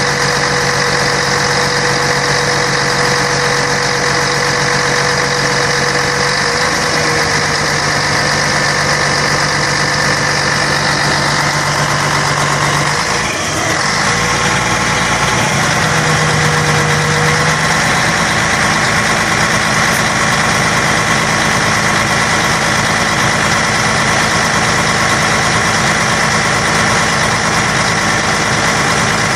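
Scania K113 bus's 11-litre six-cylinder diesel engine running steadily, its pitch stepping a few times, with a brief dip and change about halfway through.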